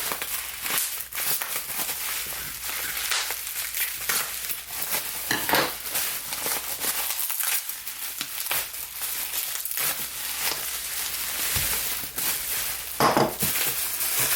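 Packaging wrap crinkling and rustling as it is handled and pulled off candles being unpacked, a dense, continuous crackle.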